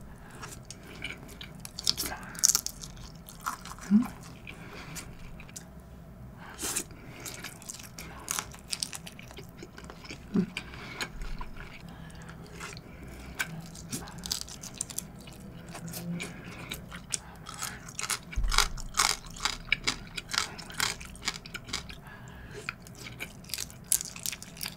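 Close-miked chewing and mouth noises of someone eating large king-prawn nigiri sushi: a steady run of soft wet clicks and smacks as the prawn and rice are chewed.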